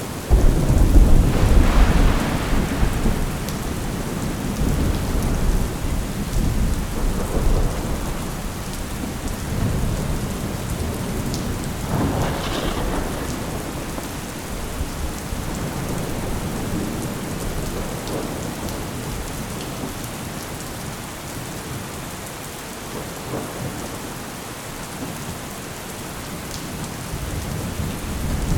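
Thunderstorm: steady heavy rain with a loud rumble of thunder right at the start that rolls on and fades over several seconds, another rumble with a sharper crack about twelve seconds in, and more thunder building near the end.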